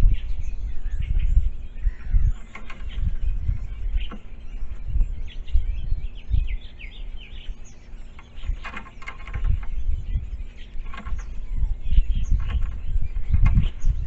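Small birds chirping in the background over repeated dull low thumps, with a hooded crow flapping its wings.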